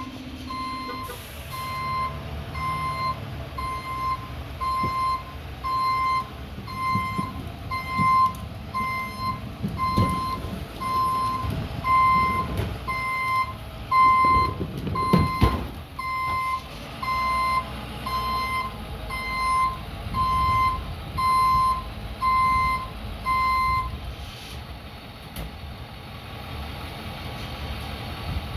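Truck's reversing alarm beeping steadily about once a second, stopping a few seconds before the end, over the truck's engine running, with a few knocks partway through.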